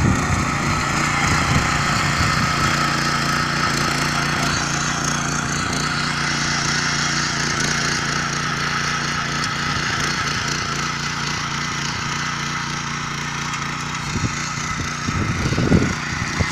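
Yağmur YET 300 walk-behind tiller running steadily under load, its engine humming evenly as the tines work through the garden soil.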